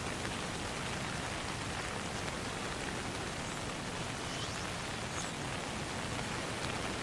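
Steady rain falling on a pond, an even hiss with scattered drop ticks and a few faint high chirps.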